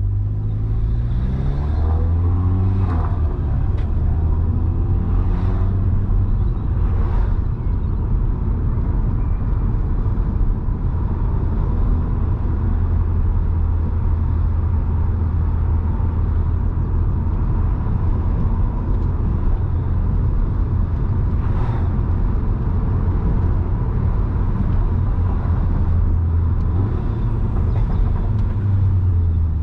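Seat Leon Cupra 300's turbocharged 2.0-litre four-cylinder engine, with resonator delete and induction kit, pulling up through the revs with several gear changes in the first seven seconds or so. It then runs steadily under way, with another rise in revs near the end.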